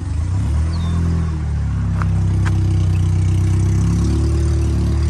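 Car engine held at a steady raised rev: it climbs slightly about half a second in, then holds there. Two light clicks come near the middle.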